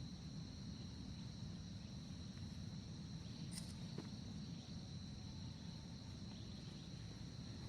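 Steady insect chorus in a forest, a continuous high-pitched ringing at two pitches, over a low rumble. A faint click about halfway through.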